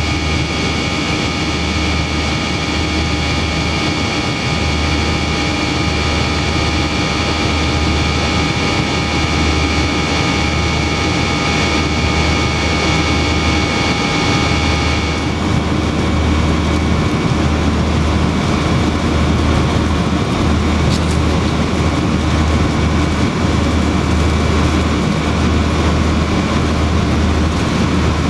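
Cabin noise of a Yakovlev Yak-42D airliner's three turbofan engines: a loud, steady rush with several high whining tones that drop away abruptly about halfway through.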